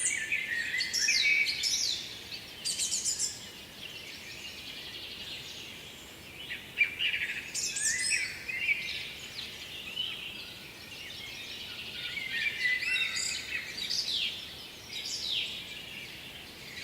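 Songbirds singing: several bursts of song made of quick, mostly falling notes, returning every few seconds.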